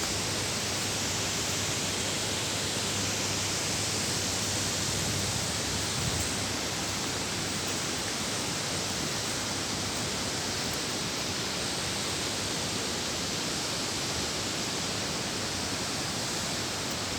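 Steady rush of falling and flowing water from a waterfall and river, an even roar with no break.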